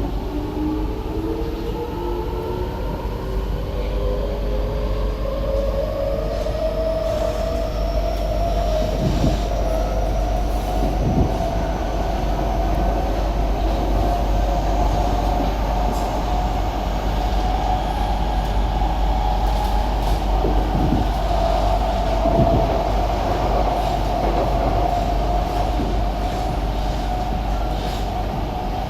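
SMRT C151B metro train's traction motors whining as it accelerates: several tones climb in pitch over the first ten seconds or so, then settle into one steady whine as the train runs at speed. A few brief low thumps come from the running gear along the way.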